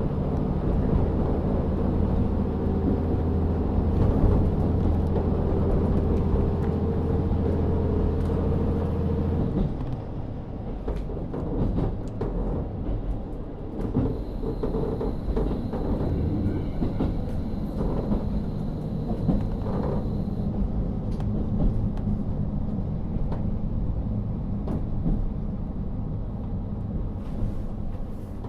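Inside a KiHa 40 diesel railcar on the move. Its N-DMF13HZB diesel engine runs steadily under power, then about nine seconds in it drops back to idle, and the car coasts on with a rumble of wheels and scattered clicks and rattles.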